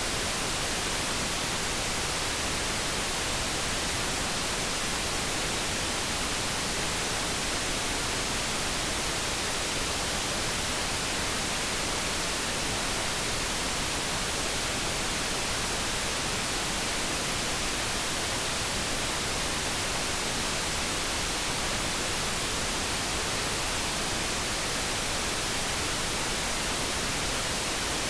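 Steady light brown noise: an even, unbroken hiss with no tones or changes.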